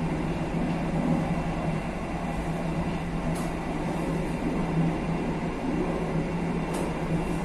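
Passenger train running along the track, heard from the back of the train: a steady rumble of wheels on rail with a constant low hum. Two faint high ticks come about halfway through and near the end.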